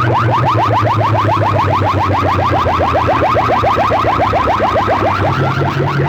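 Loud electronic siren-like effect played through a DJ sound-box system: rapid rising chirps, about seven a second, repeating evenly over a steady low drone.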